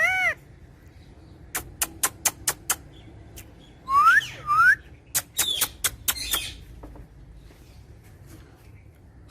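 Parrot calling: a short whistled call, a run of sharp clicks, then two rising whistles about four seconds in, followed by more clicks and harsh chirps.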